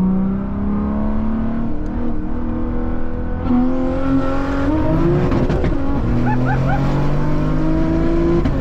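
Big-turbo BMW M3 engine pulling hard at full acceleration, its pitch climbing through the gears. It changes gear about two seconds in and again around five to six seconds in, where the note drops and then climbs again, with wind and road hiss building.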